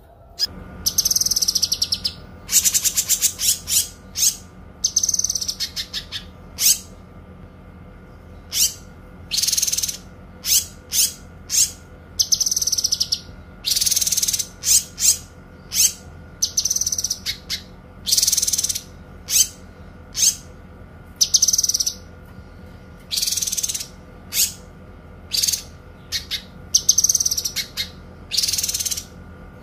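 Kinoi songbird singing: a long run of high, clear phrases about a second apart, some held for a second or more and some broken into rapid trills of quick notes, over a faint steady hum.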